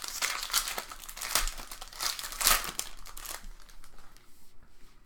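Trading-card pack wrapper crinkling and crackling as it is opened and handled, loudest about two and a half seconds in, then quieter.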